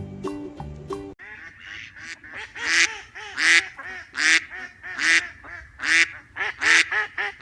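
Duck quacking: a run of loud, repeated quacks starting about a second in, after a short bit of plucked-note music.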